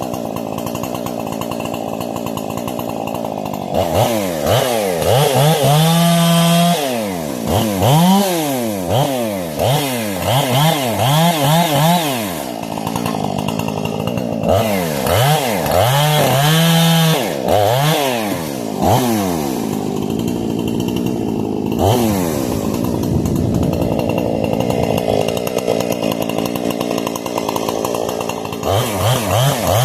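Husqvarna 460 two-stroke chainsaw with a modified carburetor and muffler, on a break-in tank. It runs steadily for a few seconds, then is revved up and down over and over, held at full throttle briefly several times.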